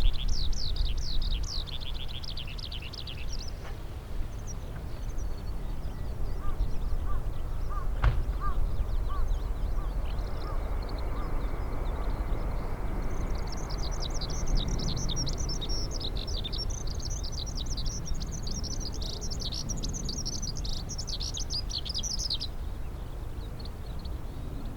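Small birds chattering in long bursts of rapid high chirps, near the start and again from the middle until near the end. In between comes a run of short lower calls about twice a second, and a single sharp click. A low wind rumble on the microphone runs underneath.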